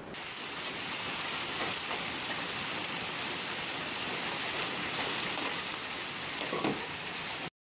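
Steady rain, an even hiss that cuts off suddenly near the end.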